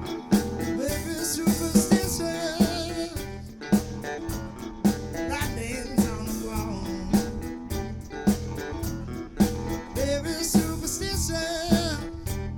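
Live band playing: a drum kit keeps a steady beat of about two hits a second under electric bass and guitar. A voice sings over them in places.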